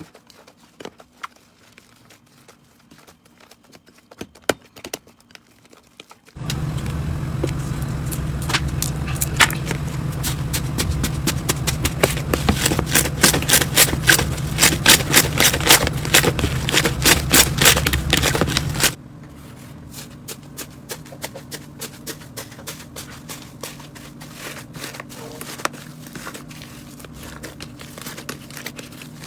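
Slime being squeezed and poked by hand, making rapid clicking and crackling pops. The pops are sparse and soft for the first six seconds, come thick and loud with a low hum underneath until near two-thirds of the way through, then go on more softly.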